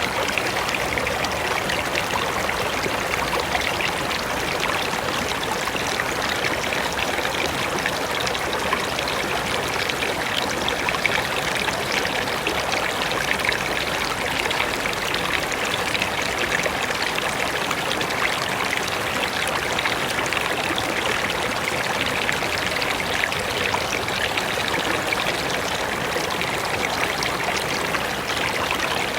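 Mountain river flowing over rocks: steady rushing and splashing water.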